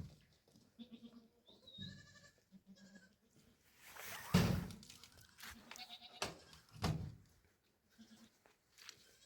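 Goats bleating, several separate calls one after another, the loudest a little past the middle.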